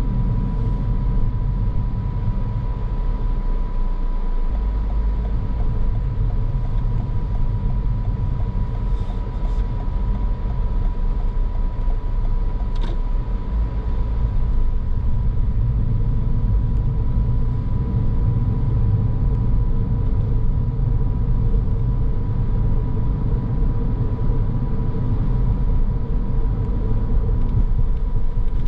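A car driving along a road, with a steady low rumble of road and engine noise and a thin steady high tone over it. A single short tick comes about thirteen seconds in.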